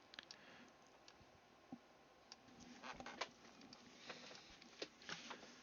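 Near silence broken by scattered faint clicks and light taps, about a dozen, with a soft rustle around three seconds in, like small game pieces being handled and set down on a table.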